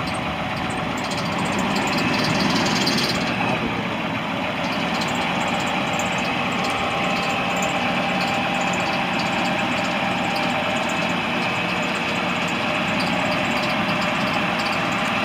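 The 1996 International 4700's T444E V8 turbo-diesel idling steadily, getting slightly louder for a couple of seconds near the start.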